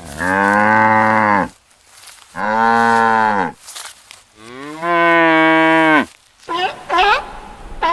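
Cow mooing: three long, low moos, each a second or more long. Near the end, a quick run of short, higher-pitched calls from another animal begins.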